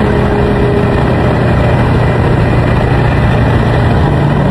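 A car engine running steadily with a low drone.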